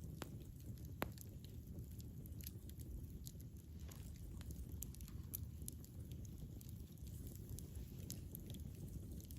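Campfire burning: wood crackling with scattered sharp pops over a low, steady rumble of the flames, with one stronger pop about a second in.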